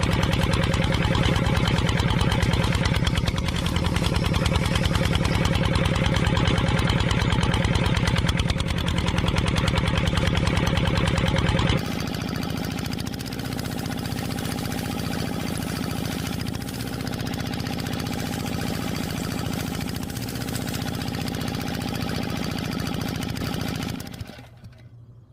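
An engine running steadily with an even, rapid pulsing beat. About halfway through it cuts abruptly to a quieter engine sound, which fades out near the end.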